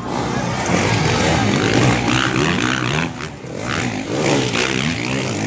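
Racing underbone motorcycle engines revving up and down as riders pass, loud throughout and dipping briefly about three seconds in.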